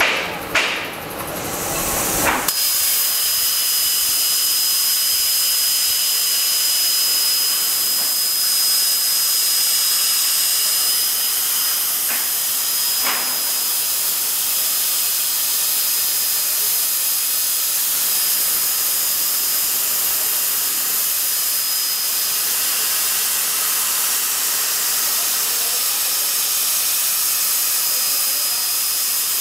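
CNC plasma cutter's torch striking its arc a couple of seconds in, then cutting with a steady hiss and a thin high-pitched whistle; a few sharp clicks come just before it starts.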